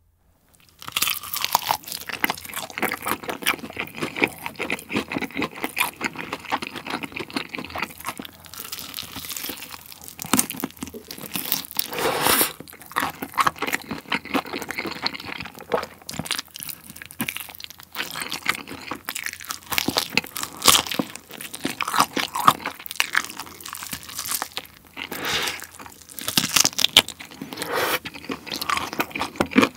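Close-miked crunching and chewing of yangnyeom fried chicken, a sauce-coated Korean fried chicken drumstick. Dense, irregular crisp crunches start about a second in and go on throughout.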